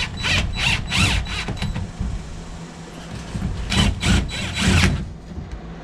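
Hand-tool work on the fuel tank: two runs of short rasping strokes, about three a second, the first run six strokes long and the second three or four.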